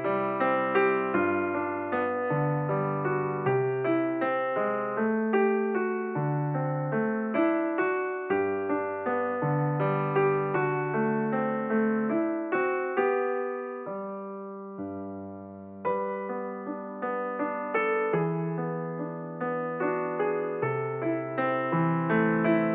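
Background piano music, notes struck in a steady flowing pattern over a low bass line, thinning to a soft held chord briefly in the middle before the pattern resumes.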